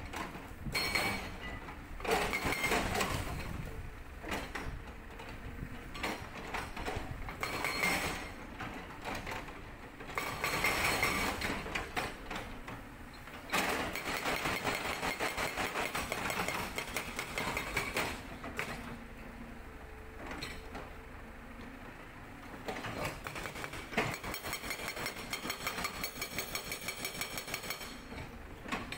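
Sangdo SD220 hydraulic breaker on a Cat 320D excavator hammering rock in several bursts of rapid, evenly spaced blows, with the excavator's diesel engine running between them.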